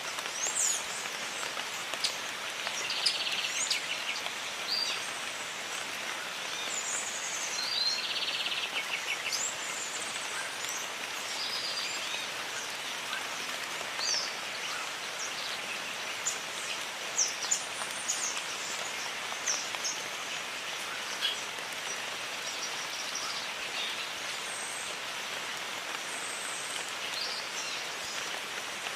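Steady rain falling in a jungle, with scattered raindrops ticking, and many birds calling over it in short chirps and whistles, including two quick trills, a few seconds in and about eight seconds in.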